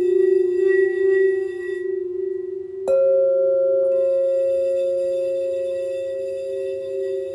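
Crystal singing bowls: one bowl sounds a steady, gently pulsing low tone, and about three seconds in a second, higher-pitched bowl is struck and rings on alongside it, slowly fading.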